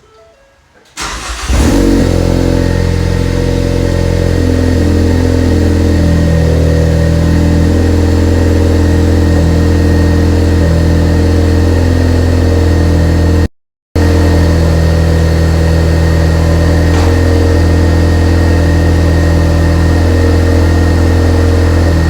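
2015 Ford Focus ST's 2.0 L turbocharged four-cylinder running through an Invidia Q300 cat-back exhaust. It starts up about a second in and settles into a steady idle, with a brief break about two-thirds of the way through.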